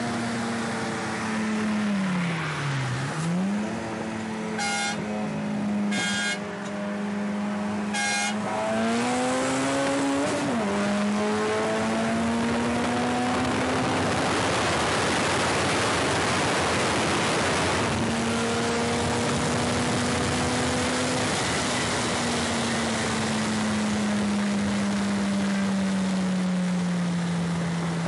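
Turbocharged Honda Integra's four-cylinder engine pulling hard at motorway speed, heard from inside the cabin over heavy wind and road noise. The engine note climbs and then drops at an upshift about ten seconds in, and it slowly falls in pitch in the last few seconds. Three brief sharp sounds come about five, six and eight seconds in.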